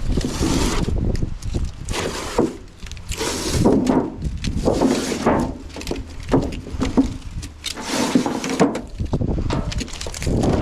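Copper refrigerator tubing being handled and peeled off its sticky glued backing: a run of irregular scraping and crinkling with some knocks.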